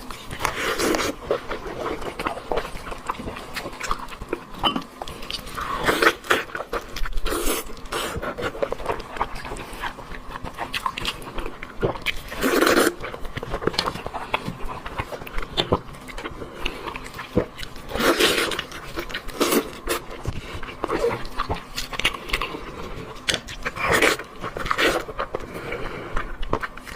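Close-up eating sounds of a person working through a sheep's head: wet chewing, smacking and sucking at meat and bone, with louder bursts every few seconds.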